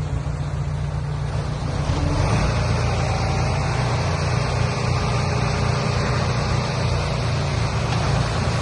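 Heavy diesel engine running steadily, with a rushing noise over it, getting louder about two seconds in.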